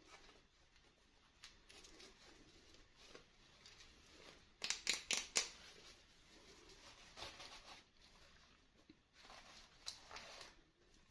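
Small hand-handling sounds of unboxing: plastic packaging rustling and crinkling, with a quick run of four or five sharp clicks about five seconds in and softer rustles later.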